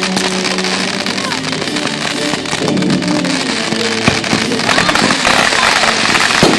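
Fireworks display crackling and banging with music playing over it. There are sharper bangs about four seconds in and again near the end.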